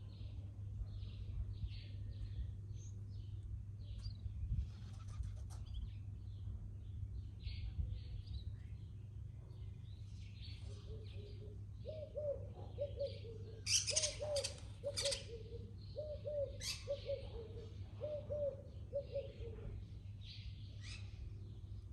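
Garden birds chirping in short high notes throughout, busiest a little past halfway. From about halfway a second bird joins with a run of low, evenly repeated cooing calls that stops near the end, over a steady low background hum.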